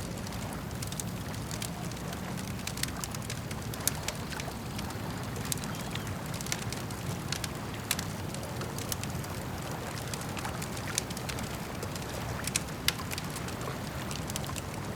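Campfire crackling, with sharp irregular pops and snaps, over a steady low wash of lake water.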